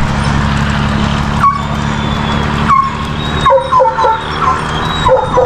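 Hunting dogs whining and yipping in short calls, several in quick succession after the halfway point, over the steady hum of a running vehicle engine.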